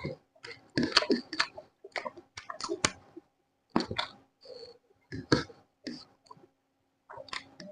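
Close-miked eating: a person chewing food, with wet mouth clicks and smacks coming in irregular short bursts.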